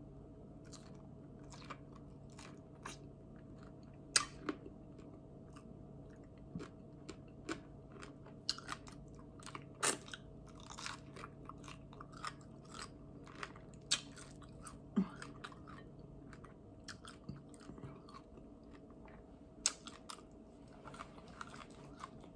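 A person biting and chewing a barbecue-sauced chicken wing: irregular wet smacks and crunching clicks, a few sharper bites standing out, over a faint steady hum.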